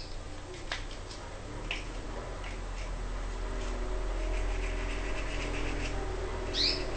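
A brush scrubbing small bird-cage equipment, with scattered short scratchy strokes. A caged songbird gives one quick chirp near the end.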